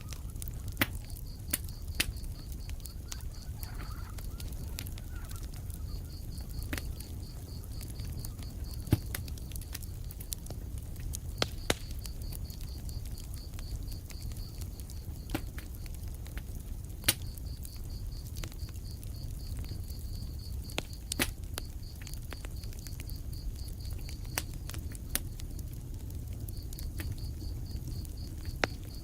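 Wood fire crackling in a fireplace: a steady low rumble of flames with sharp pops and snaps every second or two, a few of them loud. A high, pulsing chirp comes and goes in runs of a few seconds.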